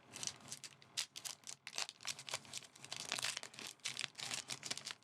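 A Yu-Gi-Oh booster pack's foil wrapper crinkling and tearing as it is opened by hand, in irregular crackly rustles.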